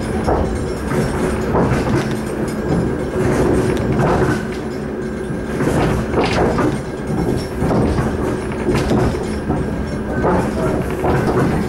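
Suburban train running at speed, heard from inside the carriage: a steady rumble and hum, with the wheels clacking over rail joints every second or two.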